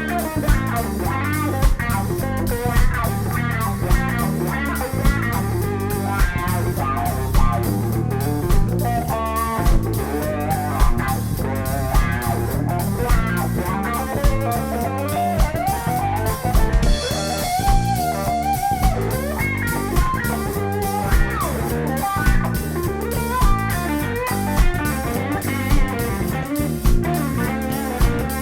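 Live band playing an instrumental reggae groove: electric guitar soloing over bass guitar and a drum kit keeping a steady beat, with a long held guitar note a little past halfway.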